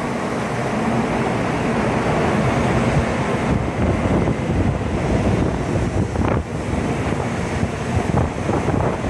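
Strong typhoon wind buffeting the microphone: a loud steady rush with deep low rumble that swells in gusts, with a few sharp knocks about six, eight and nine seconds in.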